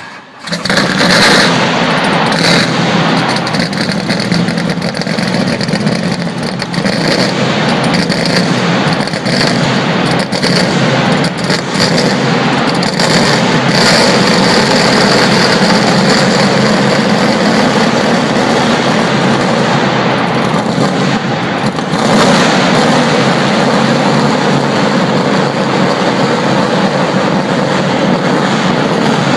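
Race-car V8 engine of a Nissan Silvia S14.5 running loudly, echoing in a hangar, with frequent sharp cracks over its steady drone. The car is driven off near the end.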